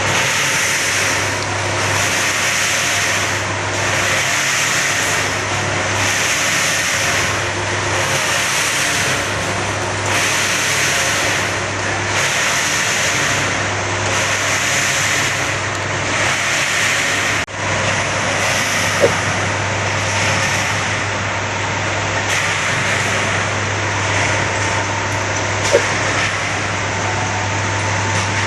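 Crop-drying machine running steadily, with a constant low hum and a whooshing hiss that swells and fades about every two seconds, like a motor-driven blower or rotating drum. A couple of faint clicks are heard in the second half.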